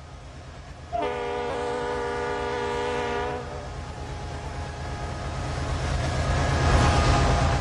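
Diesel freight locomotive sounding its horn once for about two and a half seconds, a steady multi-note chord, over the low rumble of the passing train, which grows louder after the horn stops.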